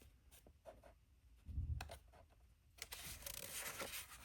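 Oracle cards being handled: a few light taps and a soft bump, then from about three seconds in a scraping rustle of card sliding over card.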